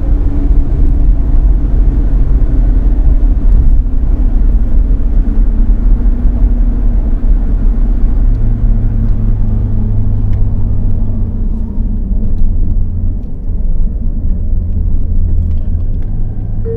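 Nissan Skyline HCR32's straight-six engine running steadily and loudly, its pitch drifting slowly down, with a deeper note coming in about halfway through. The owner suspects a knocking-like noise that grows louder than the exhaust note from about 5500 rpm.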